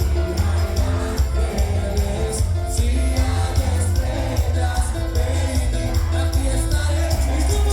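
A live band playing with singing, over heavy bass and a steady beat with regular cymbal ticks.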